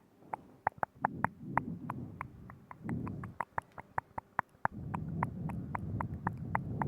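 ASMR mouth sounds right at the microphone: rapid wet clicks and smacks of tongue and lips, about four a second, over stretches of low rustle.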